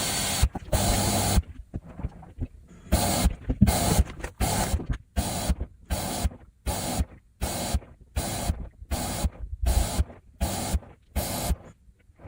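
Haier HW90-BP14636 front-loading washing machine early in a cotton cycle. A long rush of noise gives way to a regular series of short noise bursts, about one every three quarters of a second, which stop near the end.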